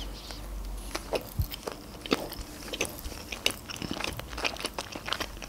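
A mouthful of sushi roll being chewed close to the microphone, with many small, irregular clicks of the mouth and food.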